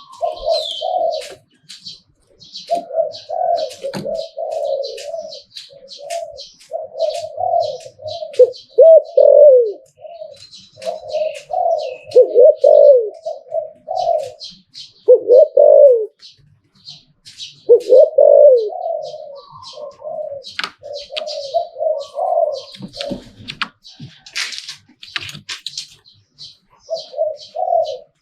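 Spotted dove cooing phrase after phrase. Several phrases end in drawn-out, falling notes, and the cooing breaks off for a few seconds near the end.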